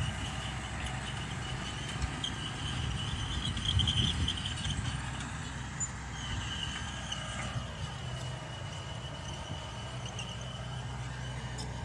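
Mitsubishi BD2G crawler bulldozer's diesel engine running under load, with a high squeal from the running gear that is loudest about four seconds in. In the second half a pitch falls and then rises again.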